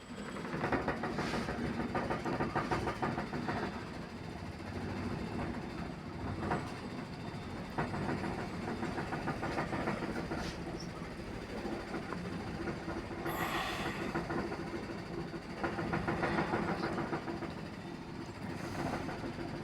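Kitchen cabinet doors rattling rapidly and continuously in their frames, shaken by ground vibration from a heavy tracked construction machine passing by, over its low rumble and steady hum. The rattle swells and eases a few times.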